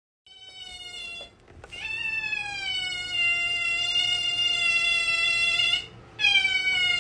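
An otter calling: a short high-pitched whining call, then a long steady one of about four seconds, then another that starts about six seconds in.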